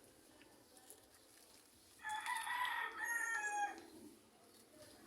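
A rooster crowing once, about two seconds in, a pitched call of nearly two seconds in two linked parts.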